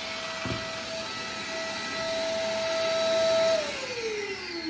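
Einhell TC-VC 1930 AC workshop vacuum running in auto mode with a steady whine, with a faint knock about half a second in. About three and a half seconds in it switches off and winds down, its whine falling in pitch as the motor slows.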